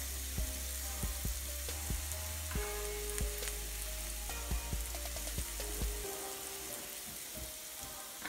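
Sliced onions sizzling steadily in hot oil in a frying pan on a gas hob, with scattered small crackles and ticks as the oil spits.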